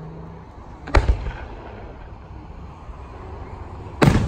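Two loud fireworks booms about three seconds apart, the reports of aerial shells bursting. Each is a sudden sharp bang that trails off quickly.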